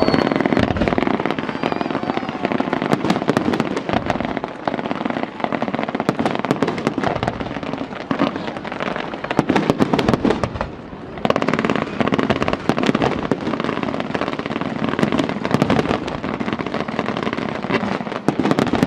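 Fireworks display: a dense, rapid run of shell bursts and crackling reports, with a brief lull a little past halfway before the bangs resume.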